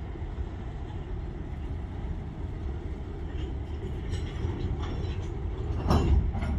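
Open hopper cars of a freight train rolling slowly past during switching, a steady low rumble, with a louder burst of noise about six seconds in.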